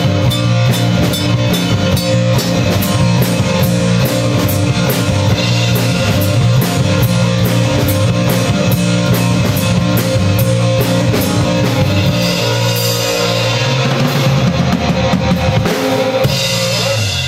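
Live band playing a rock-style song with drum kit and electric guitar over a steady beat and bass line.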